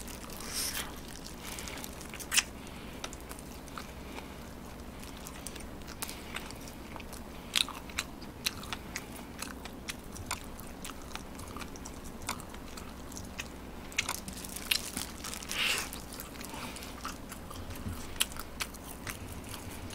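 A person biting and chewing fried chicken close to the microphone: scattered crunches and wet mouth clicks, with a louder crunch about two seconds in and a cluster of them around fifteen seconds.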